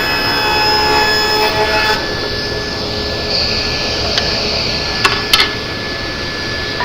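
Table saw with a ripping blade running. It whines under load, cutting through a board, until about two seconds in, then runs on freely. A few sharp knocks come around four and five seconds in.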